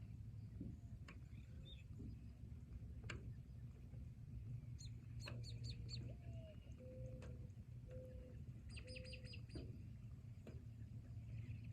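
Birds chirping in two quick series of high notes, with a few short low whistled notes in between, over a steady low rumble.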